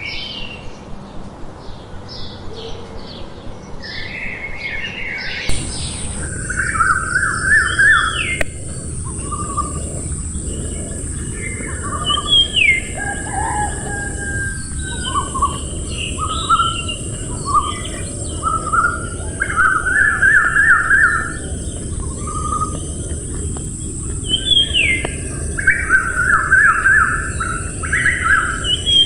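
Songbirds chirping and calling: quick repeated chirps at first, then, after an abrupt change about five seconds in, short trills and whistled downward-sliding calls over a steady high hiss.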